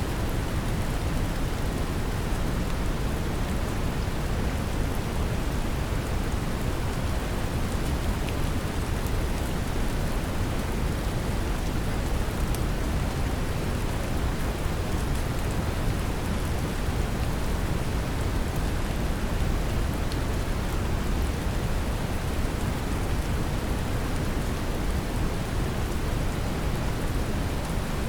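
Steady brown noise, a deep even rumble-like hiss, mixed with gentle rain pattering, unchanging throughout.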